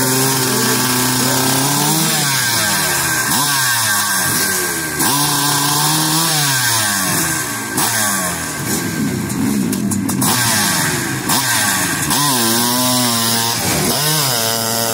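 Hillclimb dirt bike engine (600cc class) revving hard, its pitch repeatedly climbing and dropping as the rider works the throttle on the climb.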